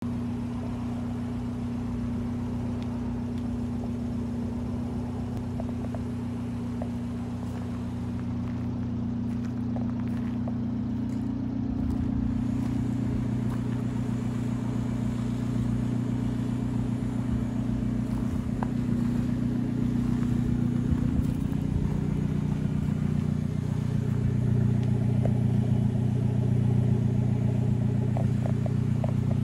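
Abarth 124 Spider's 1.4-litre turbocharged four-cylinder idling steadily, growing gradually louder toward the quad-tip exhaust.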